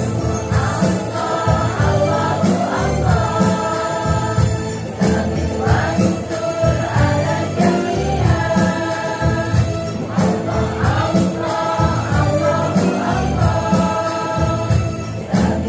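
Women's choir singing a devotional song together, with percussion keeping a steady beat.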